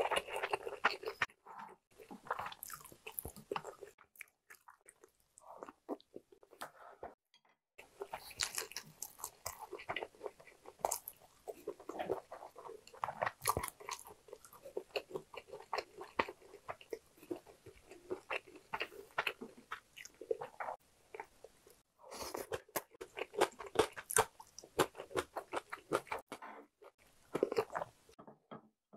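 Close-up chewing and eating mouth sounds of a person eating a home-style Korean meal, in bursts of crunchy, clicking chews with a few short pauses.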